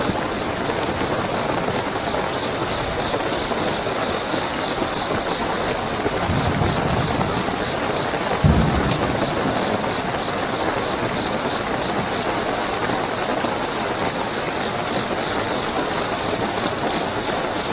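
Steady heavy rainfall with crickets trilling continuously at a high steady pitch. Low rumbles swell about six and a half seconds in and again, sharper and louder, at about eight and a half seconds.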